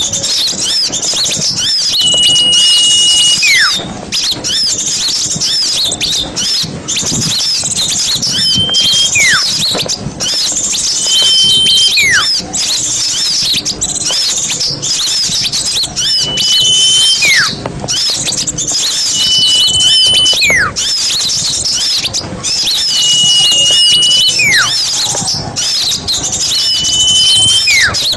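Many small birds chattering and twittering rapidly and high-pitched, a noisy flock recording used as a lure for forest birds. About every four seconds a short held whistle sounds, and separately a whistle slides downward.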